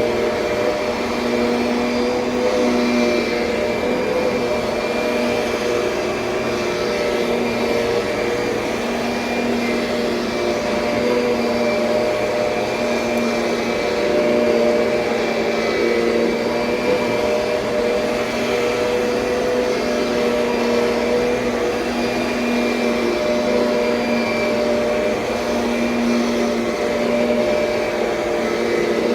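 2007 Kirby Sentria upright vacuum cleaner running steadily, a loud motor whine with a slightly wavering pitch.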